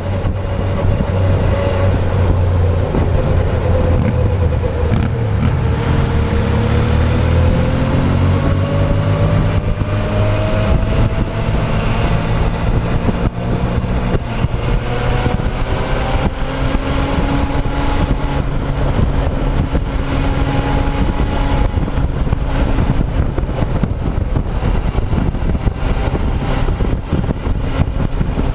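Motorcycle engine running while riding, heard close up from a camera on the fuel tank. Its note dips in the first few seconds, then climbs slowly as the revs rise, and levels off near the end.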